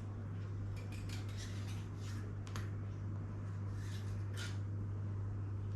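A few light clicks and scrapes of parts being handled on a mountain bike's rear end, over a steady low hum.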